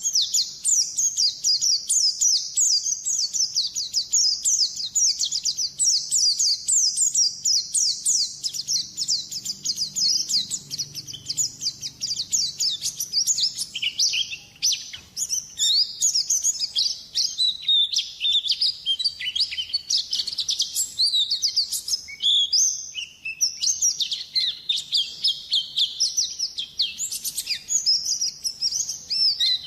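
Bird-lure recording of white-eyes (pleci): dense, fast, high-pitched twittering that runs on without a break. About halfway through, the notes become more varied and dip somewhat lower.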